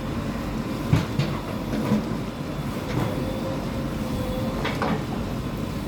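Bulldozer's diesel engine running with a steady low rumble and a faint held whine, with a few short sharp knocks scattered through it.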